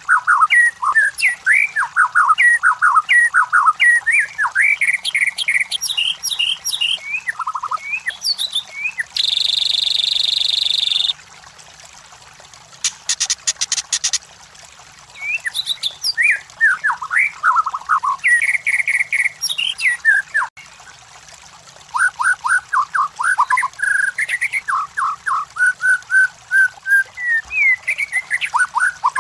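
White-rumped shama (murai batu) singing in fast runs of varied whistled and chirping notes, in bursts with short pauses and a harsh buzzing phrase about nine seconds in.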